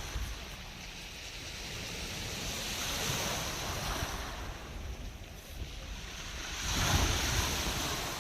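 Black Sea surf breaking and washing onto the shore in two swells, one a few seconds in and a louder one near the end, with wind rumbling on the microphone.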